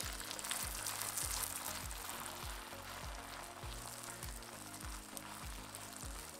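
Beaten egg and a paratha frying in oil on a hot tawa, a steady sizzle.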